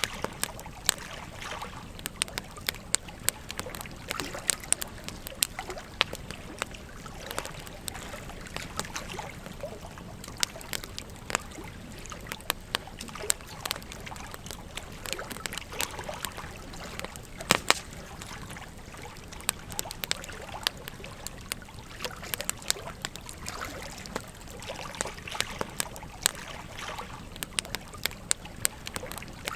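Campfire crackling, with frequent sharp irregular pops, over the steady trickle of a gently flowing stream.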